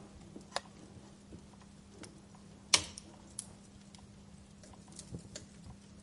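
Wood fire burning in a fireplace, crackling with scattered small snaps and one loud pop a little before the middle.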